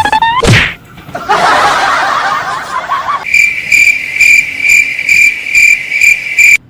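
A whoosh, then a chattering, laugh-like burst, then a high-pitched tone pulsing about three times a second that cuts off suddenly near the end.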